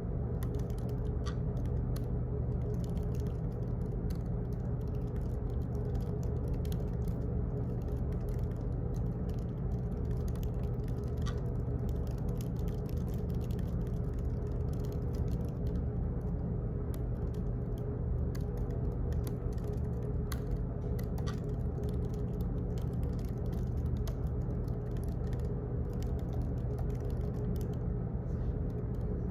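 Office ambience: a steady low hum with many faint, irregularly spaced clicks and ticks over it.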